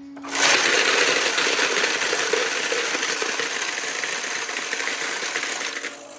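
A batch of quarters being run through a coin counting machine: a dense, steady clatter of coins over the machine's hum. The clatter starts about a third of a second in and stops near the end as the last coins go through.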